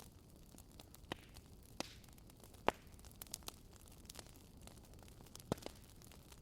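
Wood fire crackling softly, with scattered sharp pops and snaps over a low hiss; the loudest snaps come about a second in, near three seconds in and near the end.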